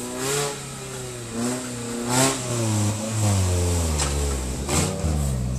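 Engine of a modified off-road 4x4 revving hard, rising and falling in pitch several times as the vehicle climbs a steep dirt slope, with a heavier, steadier pull in the second half.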